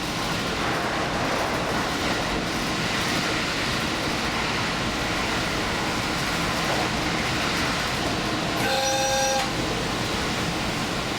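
Express train running, heard from inside at the front: a steady rumble of wheels on track and running noise. About nine seconds in, a short horn blast of two steady notes sounds for under a second.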